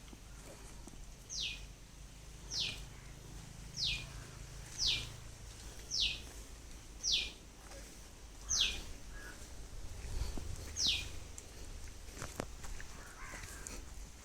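A bird calling: a short, high note sliding sharply down in pitch, repeated eight times at about one call a second.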